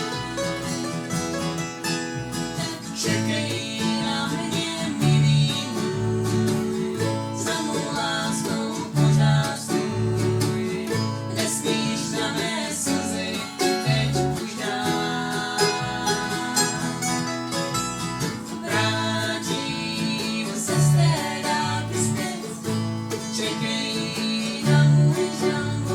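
A bluegrass-style string band playing, with guitar and banjo picking over steady bass notes.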